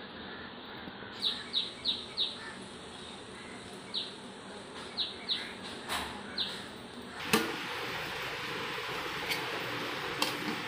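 A small bird chirping: about nine short chirps, each falling in pitch, in quick runs of two to four. A little after seven seconds comes a sharp click, then a steady hiss.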